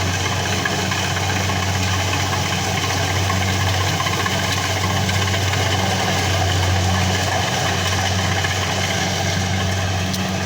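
An engine running steadily at a constant speed, with a strong low hum and no change in pitch.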